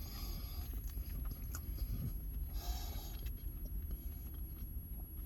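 Close-miked chewing of a mouthful of oxtail poutine: soft wet mouth sounds with small scattered clicks over a low steady hum.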